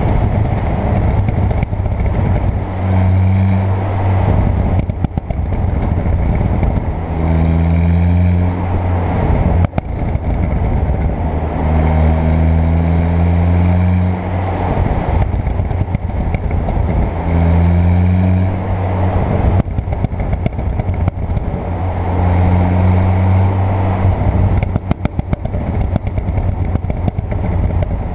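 Tuned 2.0 TFSI four-cylinder turbo engine pulling under throttle in repeated stretches of about two seconds, its note rising slightly each time, six pulls in all. Between the pulls, on lift-off, come scattered exhaust crackles and pops.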